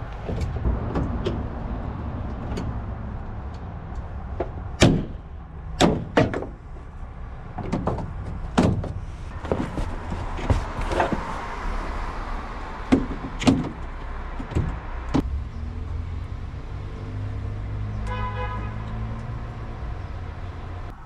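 Irregular sharp metal clanks and knocks from clamps and pliers being worked on a camper shell's edge and a pickup bed rail, over a steady low rumble of traffic. Near the end comes a brief pitched tone about a second long.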